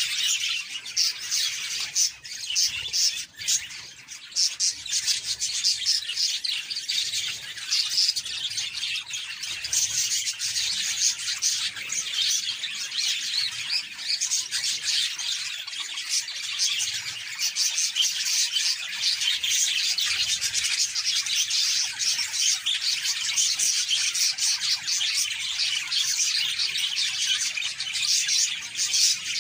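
A flock of budgerigars chattering and warbling continuously, a dense mix of overlapping chirps and twitters.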